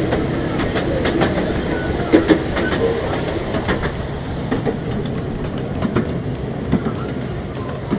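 7¼-inch gauge miniature railway train running on its track: a steady low rumble from the wheels, with frequent sharp clicks over the rail joints.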